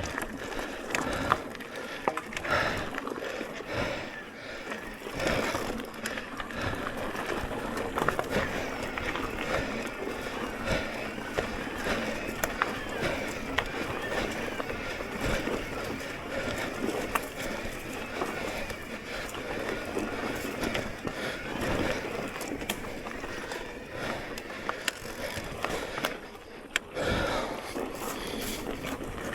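Electric mountain bike riding over a rough trail: tyres rolling and crunching over the ground, with a continuous rattle and many small clicks and knocks from the bike.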